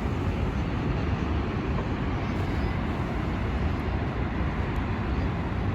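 Steady rushing roar of the Rhine Falls' water, even and heavy in the low end.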